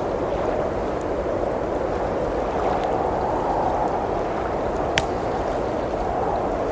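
Blizzard wind blowing steadily, swelling and easing slowly, over the faint crackle of a wood fire, with one sharp pop from the fire about five seconds in.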